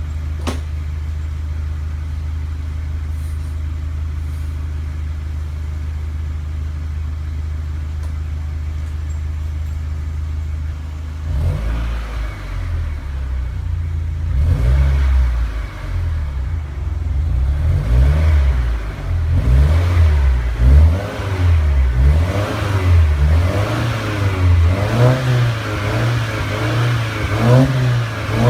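Subaru Levorg 2.0GT-S turbocharged flat-four breathing through a K2GEAR Spec Neo Phantom aftermarket muffler. It idles steadily for about eleven seconds, then is revved in repeated throttle blips that rise and fall back, coming quicker toward the end.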